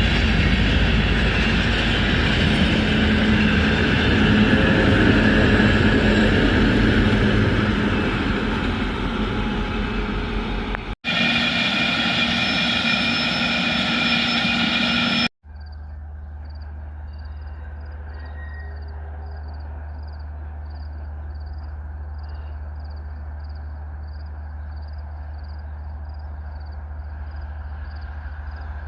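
Freight train passing: a loud, dense rolling noise of wheels and wagons. After a sudden cut comes a few seconds more of loud train noise with steady tones in it. After a second cut there is a quieter, steady low hum with a faint high chirp repeating about twice a second.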